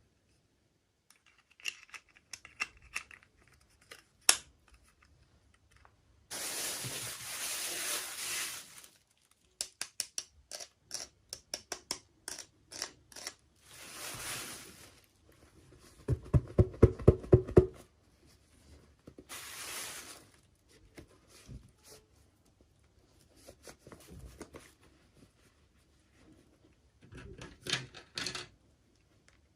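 Toy packaging being opened by hand: bursts of tearing and rustling plastic and cardboard, runs of small clicks, and a quick run of sharp taps about two-thirds of the way through.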